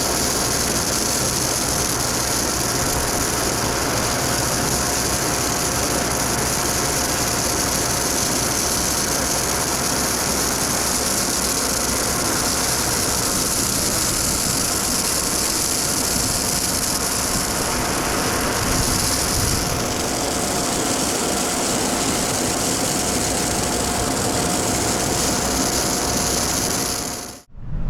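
Stone slinger truck running steadily, a constant engine sound with a steady whine and a strong hiss over it; it cuts off abruptly near the end.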